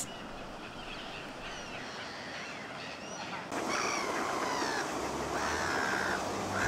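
Birds calling: faint high chirps at first, then, from about halfway, louder drawn-out calls that bend in pitch. A low hum joins near the end.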